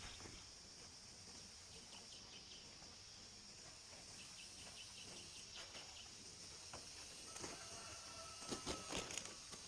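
Faint rural ambience: a steady high insect drone, with a few light clicks or rustles near the end.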